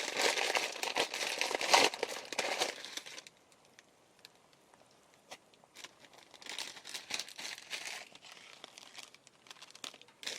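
Plastic packaging of instant ramen crinkling as it is handled and opened, in two bouts: a loud one over the first three seconds and a softer one from about six to nine and a half seconds in.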